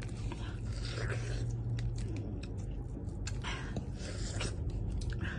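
Close-up eating sounds: wet chewing and mouth clicks, with a few short breathy rushes of air, over a steady low hum.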